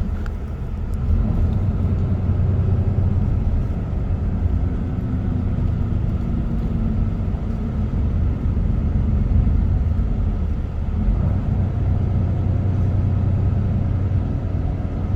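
Steady road and engine noise of a car cruising on an expressway, heard from inside the cabin: a continuous low rumble with a steady hum.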